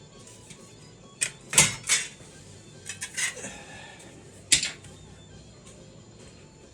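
Steel pieces being handled on a workbench: a scattering of sharp metal clanks and knocks, some with a brief ring, loudest about one and a half seconds in and again past the middle.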